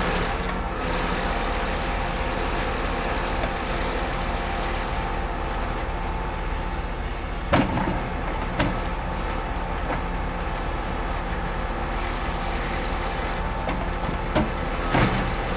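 Log wagon's diesel engine running steadily while it unloads, with a few sharp knocks, two about halfway through and two near the end.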